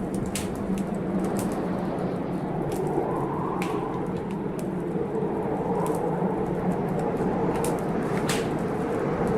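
Wood fire crackling in a fireplace, with irregular sharp pops, over a steady storm noise.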